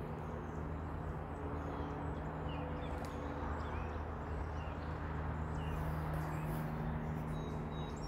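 Small birds chirping with short, high notes about once a second, which BirdNET takes for a song sparrow. They sound over a steady low hum.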